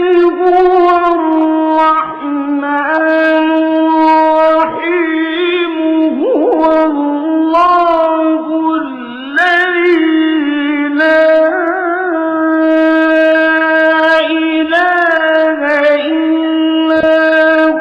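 A male reciter chanting the Qur'an in a melodic style, drawing one phrase out into long held notes. There is a quick ornamented pitch turn about six seconds in and a short dip near nine seconds before the held tone resumes.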